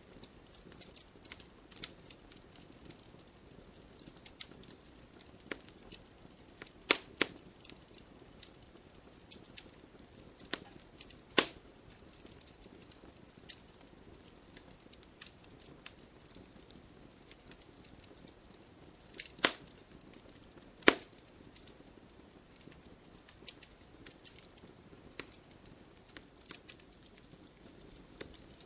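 Wood fire crackling in a fireplace: a steady patter of small crackles over a soft low hiss, with a handful of louder sharp pops, two close together around seven seconds in, one about eleven seconds in and two near twenty seconds.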